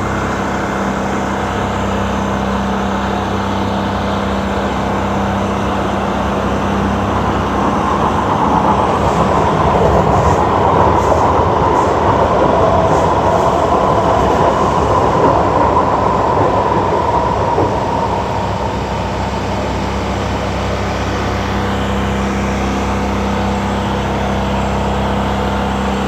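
Steady outdoor vehicle noise with a low hum, swelling for about ten seconds in the middle and fading again as a vehicle passes.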